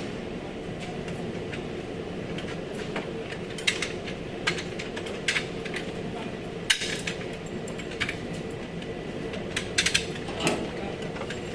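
Scattered sharp metallic clicks and clinks of hand tools and body parts being worked on a car's front end, over a steady low hum.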